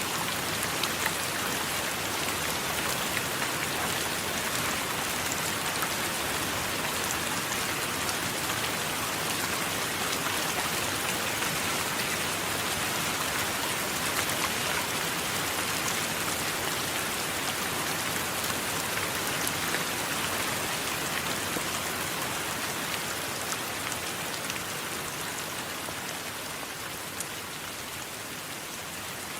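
Steady rain falling: a dense, even hiss sprinkled with fine ticks of individual drops. It eases slightly near the end.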